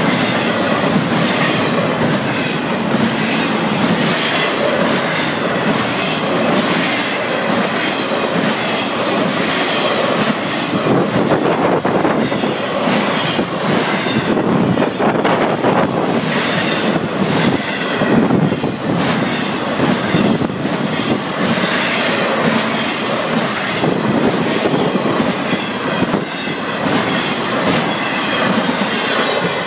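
Fast freight train of double-stack container and trailer flatcars passing close by: a loud, steady rumble of wheels on rail with repeated wheel clacks.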